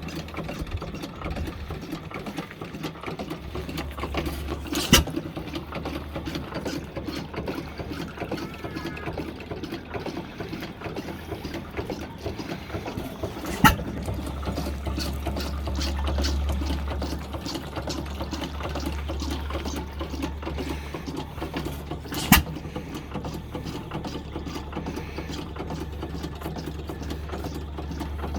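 1908 International Harvester Famous 4 hp stationary engine running with a steady, rapid mechanical clatter and low hum, firing one sharp bang about every nine seconds, three times in all. This is a hit-and-miss engine coasting between power strokes, which is typical of light or no load.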